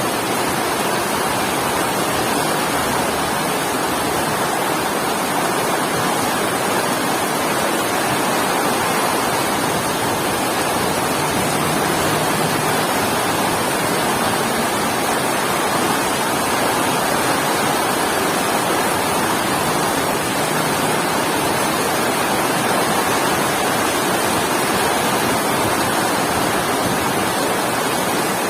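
Heavy rain falling: a steady, even hiss with no breaks or thunderclaps.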